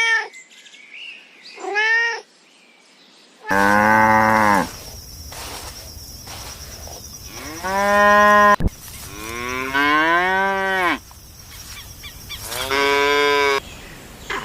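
A cat meowing twice in short calls, then a cow mooing four times in longer, lower calls, one of them rising and falling in pitch.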